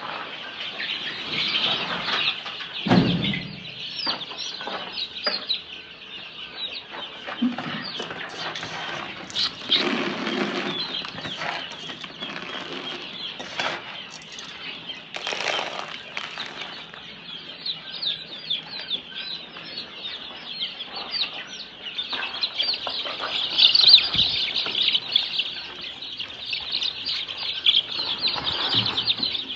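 A flock of chickens peeping constantly in short high chirps, with scattered brief flutters and scuffles. The chirping thickens in the second half.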